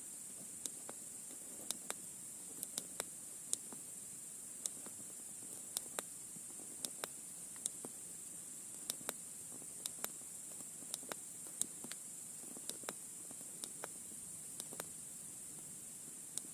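Faint steady hiss with irregular sharp clicks and crackles, one or two a second, like static.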